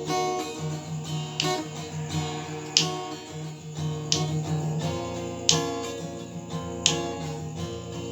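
Acoustic guitar strummed, with a sharp strum about every second and a half and chords ringing between.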